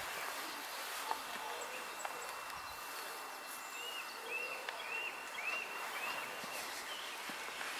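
A songbird singing a run of about six short up-and-down notes, roughly two a second, in the middle of the stretch, over a steady outdoor hiss.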